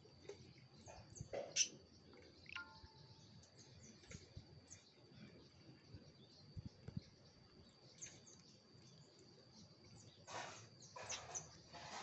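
Quiet open-air ambience with birds chirping now and then, over a steady high thin tone. A few short bursts of rustling noise come near the end.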